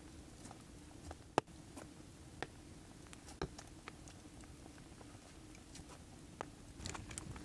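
Scattered light clicks and taps, a few a second at most and irregular, over a low steady background hum; the sharpest come about a second and a half and three and a half seconds in.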